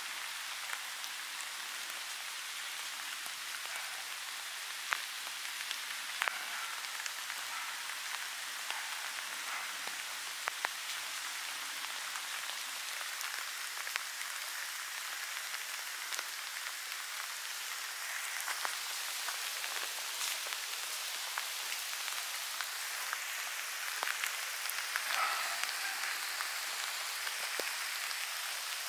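Light rain falling on grass and leaves: a steady soft hiss with scattered single drops ticking close by.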